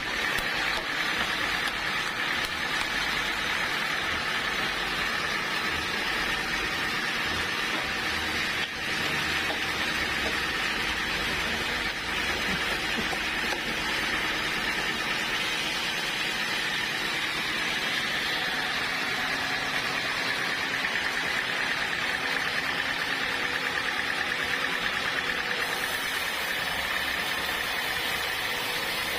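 Sawmill saw running through a hard acacia log: a steady machine drone with a high, even whine from the blade and no break in the cut.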